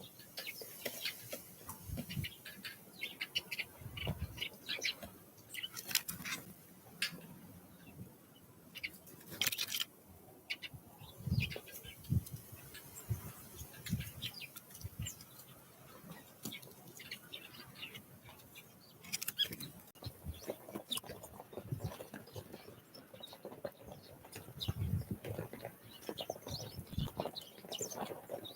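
Small wild birds coming and going: soft wing flutters and low thumps, irregular pecking taps and short high chirps.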